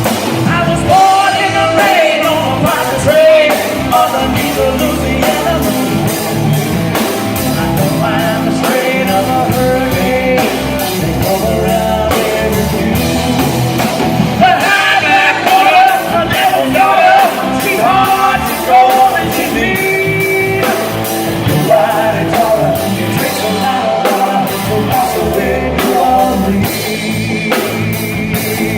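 Live band playing an instrumental passage of a rock song, a lead instrument bending notes over the rhythm section.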